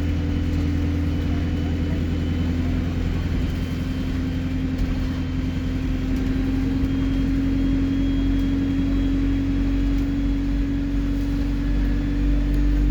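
Alexander Dennis Enviro 200 bus engine running under way, a steady drone slowly rising in pitch, with a thin high turbo whistle over it that also climbs gradually.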